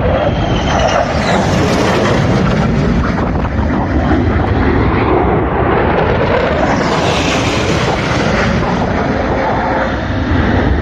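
F-35 Lightning fighter jets flying low past, a loud continuous jet roar. Its hiss swells twice, about a second in and again about seven seconds in, with sweeping changes of pitch as the jets go by.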